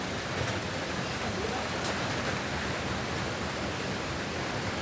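Steady rushing noise of strong storm wind as a hurricane builds, buffeting the microphone with a low rumble.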